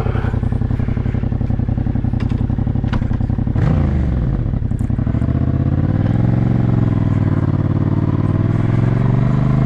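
Yamaha parallel-twin motorcycle engine running under way. Its note changes pitch about three and a half seconds in, then rises and falls gently as the revs change.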